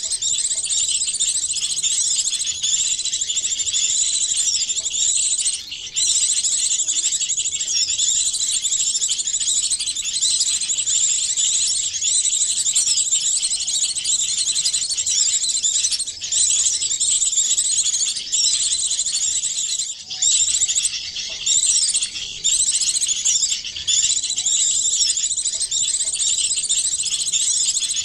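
Bird-lure recording: a dense, unbroken chorus of high chirps, twitters and quick whistles from several small songbirds mixed together, meant to draw small birds in. It drops out briefly a few times, around 6 s and again several times in the second half.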